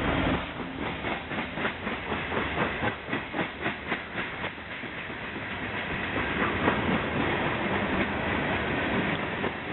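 Union Pacific ballast train rolling past, a locomotive horn note cutting off right at the start. Its wheels clack over rail joints in a quick, even rhythm for the first few seconds, then settle into a steadier rumble.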